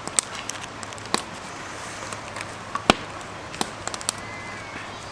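Wood campfire crackling, with irregular sharp pops over a steady hiss; the loudest pop comes about three seconds in.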